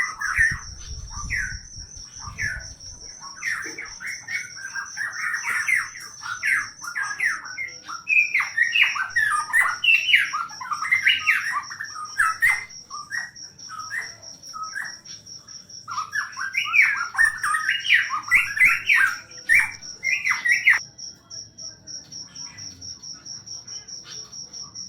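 A cucak pantai songbird sings in long runs of rapid, varied notes over a steady, high, pulsing cricket trill. The bird stops about four-fifths of the way through, leaving the cricket chirping alone.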